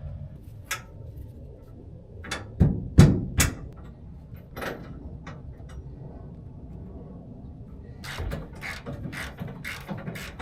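A series of irregularly spaced sharp knocks and clicks over a low steady hum, the loudest three close together about two and a half to three and a half seconds in, then a quicker run of clicks from about eight seconds in.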